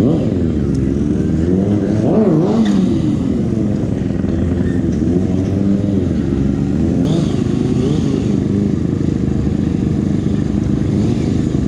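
Sportbike engine running, revved up and down several times, with the biggest rev about two seconds in.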